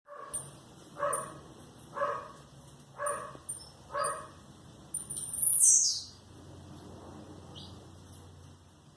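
Pet songbirds chirping, with a loud call sliding downward in pitch about five and a half seconds in; a dog barks four times, about once a second, over the first few seconds.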